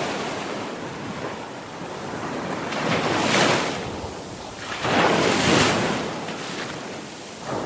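Sea waves breaking and washing on a shore, with two swelling crashes, one about three seconds in and a longer one about five seconds in, and the hiss of the wash between them.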